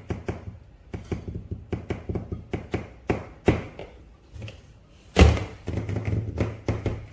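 Light plastic taps and clicks from an action figure and its packaging being handled, a quick irregular run of them, with one louder thud about five seconds in.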